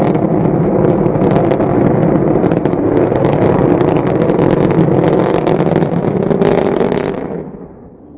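Rocket engine rumble with a crackling edge, steady and loud, fading away about seven seconds in.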